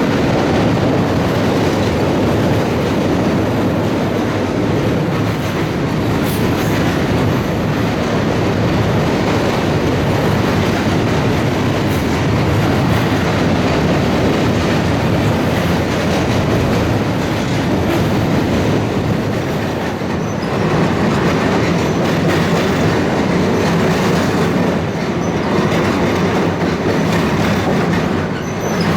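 Railcars of a passing train rolling by close at hand: a steady, loud rumble of wheels on rail with occasional clicks.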